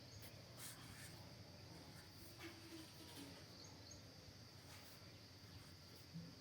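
Near silence: faint steady background hiss, with a few soft short scratches, about one every two seconds.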